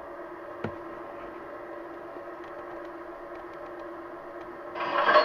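MTH R142A model subway train's sound system at standstill: a steady electrical hum with several held tones and a single click about half a second in. Near the end a much louder sound with several tones cuts in.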